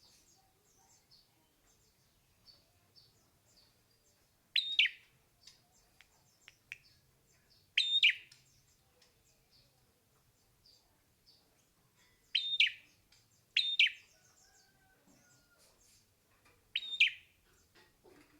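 Hair-crested drongo calling: five loud, sharp calls a few seconds apart, each a brief note that drops in pitch, with soft chirps in between.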